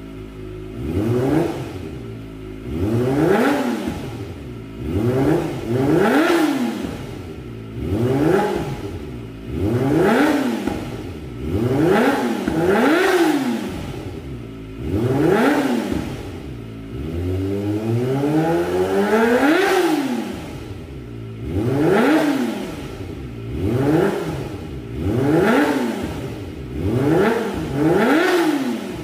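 Kawasaki Ninja ZX250R with an aftermarket exhaust, revved repeatedly while standing: about a dozen quick throttle blips that each rise and fall in pitch, with one longer, slower rev near the middle.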